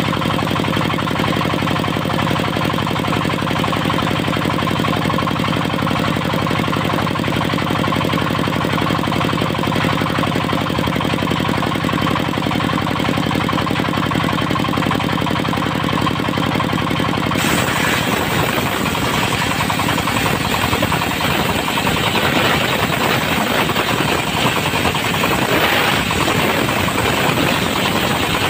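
Diesel engine driving a circular sawmill, running steadily with a rapid knock. About two-thirds of the way through the sound turns harsher and noisier, with more hiss.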